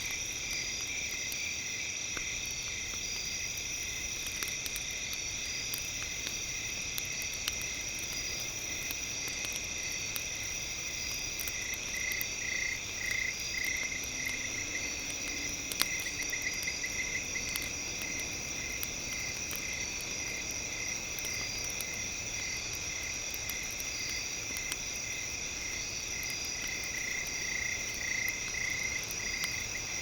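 Night chorus of insects and frogs: steady shrill trilling with pulsing calls, over the light crackle of a campfire, with one sharper pop about sixteen seconds in.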